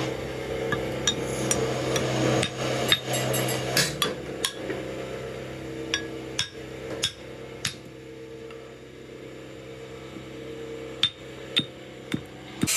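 Sharp metal-on-metal knocks, about fifteen at uneven spacing, bunched in the first few seconds and again near the end, over a steady machine hum.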